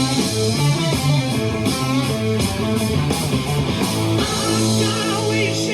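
Rock music led by an electric guitar riff, loud and steady.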